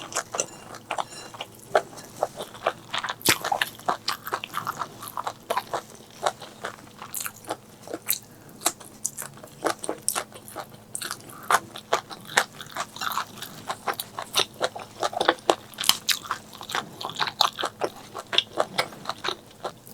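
Close-miked eating: chewing and biting with many sharp, wet crunches, several a second.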